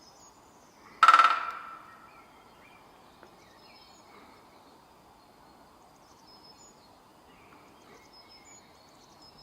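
Woodpecker drumming: one fast drum roll on a resonant object about a second in, with a ringing tone after it. Faint small-bird chirps are heard in the background.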